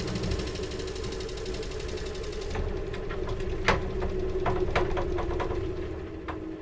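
A woodworking machine's motor running with a steady hum, a loud hiss of working over it for the first two and a half seconds, then stopping and leaving the hum with a few sharp clicks.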